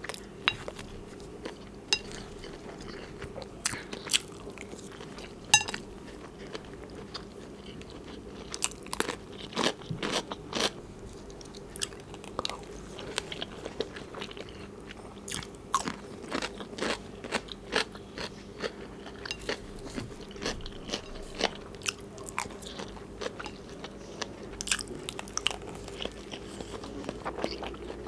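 Close-miked chewing of zucchini stuffed with beef and mozzarella cheese, with rice: irregular wet mouth clicks and smacks, several a second, with now and then a louder bite.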